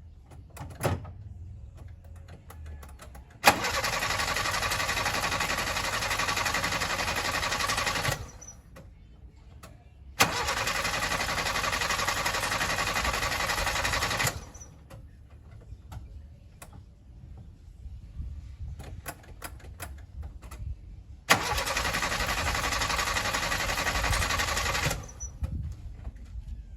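Toyota Conquest's engine being cranked by the starter three times, each try a few seconds long and opening with a sharp click, and each time cutting off without the engine catching: the car has no fuel in it.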